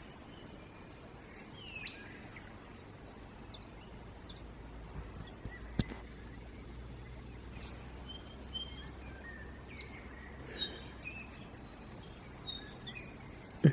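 Small birds chirping and whistling in short, scattered calls over a soft steady background hiss, with one sharp click about halfway through.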